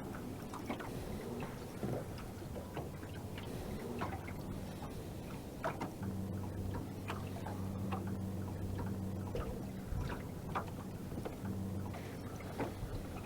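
Quiet sounds aboard a fishing boat: scattered small clicks and knocks, with a low steady hum that comes in about six seconds in, fades briefly, and returns near the end.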